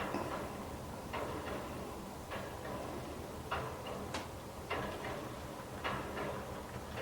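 Faint, sharp ticks or clicks at uneven intervals, roughly one a second, over a faint steady low hum.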